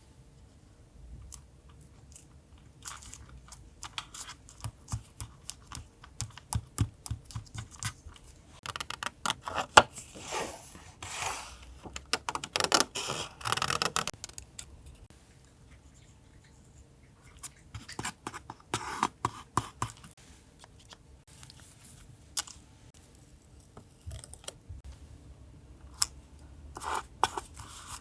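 Paper being handled for a collage journal page: rustling and crinkling, with scattered taps and clicks, in two busier stretches about a third and two thirds of the way through.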